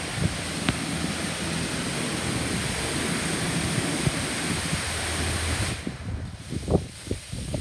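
Automatic car wash spraying water onto the car: a steady rushing hiss that cuts off near the end, followed by a couple of short knocks.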